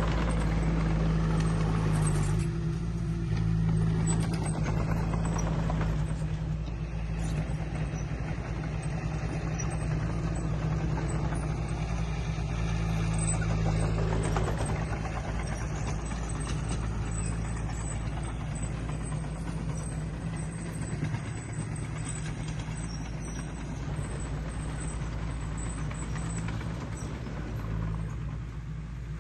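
Diesel engine of heavy earthmoving equipment running with a steady low drone, easing somewhat about halfway through.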